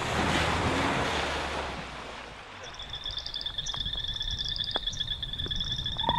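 A rush of splashing water as a small two-wheel-drive bakkie ploughs through a flooded low-water crossing, fading after about two seconds. Then a chorus of frogs sets in, with steady high trills and repeated chirps.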